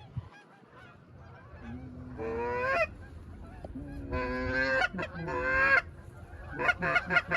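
Goose honking: three long, drawn-out honks that jump up in pitch, then a quick run of short honks and clucks near the end.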